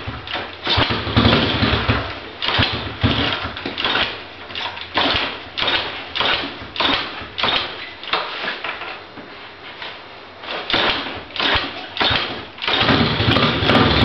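2008 Baja 125 dirt bike engine being cranked after sitting about five months, with a long run of uneven bursts as it struggles to start. About 13 seconds in it catches and keeps running steadily.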